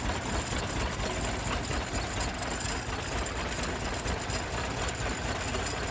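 Waterloo Boy Model N tractor's two-cylinder engine idling with a steady, even beat.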